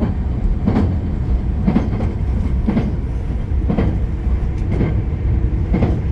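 Moving passenger train heard from inside the carriage: a steady low running rumble, with a clack from the wheels over rail joints about once a second.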